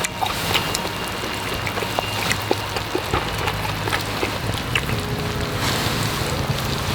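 Food cooking over a flame: a steady hiss with scattered small pops and crackles throughout.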